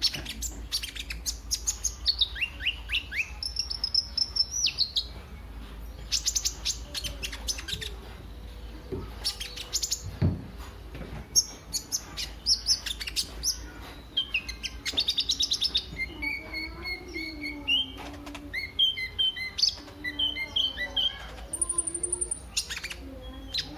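Kolibri ninja sunbird singing a fast, varied song of high chirps, rapid clicking runs and short trills, the lively 'gacor' song used to set other birds singing.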